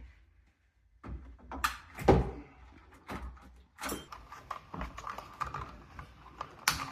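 Irregular knocks, thuds and clatter of hands-on renovation work, starting about a second in with the loudest knock about two seconds in.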